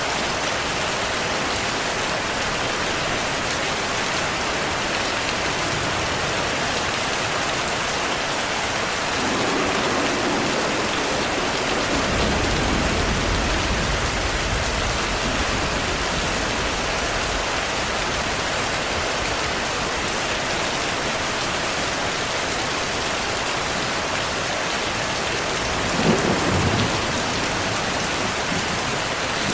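Heavy rain falling steadily, with thunder: a long low rumble about a third of the way in, and a shorter, sharper thunderclap near the end.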